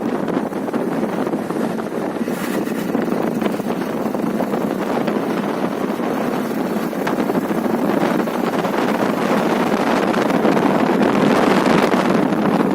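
Steady rush of wind buffeting the microphone on a moving bike, growing a little louder near the end.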